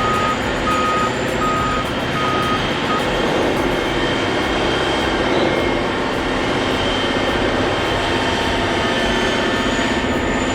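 Heavy earthmoving machine's diesel engine running steadily under load. A reverse alarm beeps in a regular series of single-pitch beeps, stopping about three seconds in.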